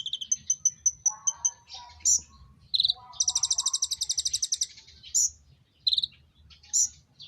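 Olive-backed sunbirds (kolibri ninja) calling: high, fast trills of evenly repeated notes, one dense trill lasting about a second and a half near the middle, with short sharp chirps between.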